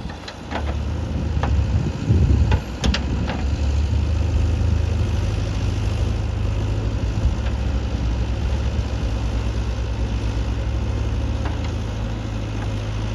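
Heavy diesel engine idling steadily, with several short metallic knocks in the first few seconds.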